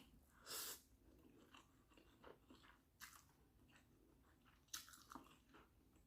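Faint chewing and mouth clicks of a person eating instant noodles, with a short hiss about half a second in and sharper clicks about three and five seconds in.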